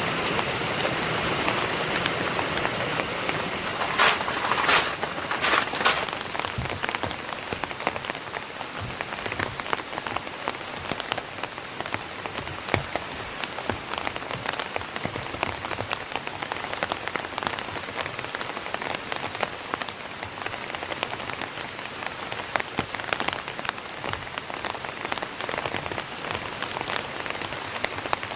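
Steady rain falling, full of small drop ticks. A few sharper clicks stand out about four to six seconds in.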